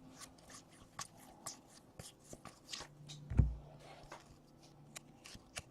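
Trading cards being handled: soft, scattered clicks and rustles of cards sliding and tapping against each other, with one dull thump about three and a half seconds in.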